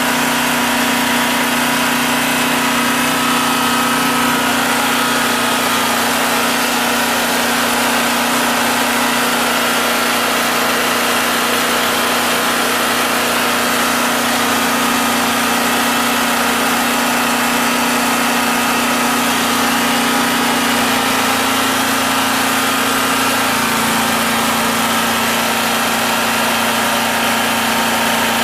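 Generac 4000EXL portable generator's engine running at steady governed speed, with a slight drop in pitch about three-quarters of the way through.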